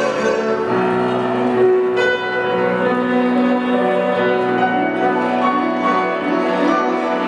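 Live instrumental music: a Chinese bamboo flute playing a melody of long held notes over guzheng and piano accompaniment.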